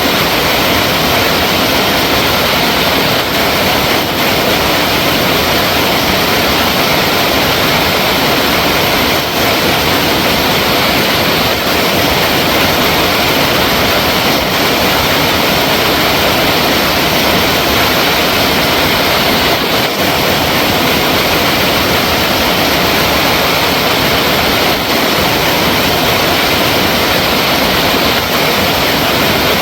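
Flowing water, a steady, loud, even rush with no breaks or changes.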